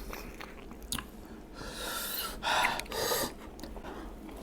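A person chewing fried chicken close to the microphone, with a sharp click about a second in and a few short, louder noisy bursts between about one and a half and three and a half seconds in.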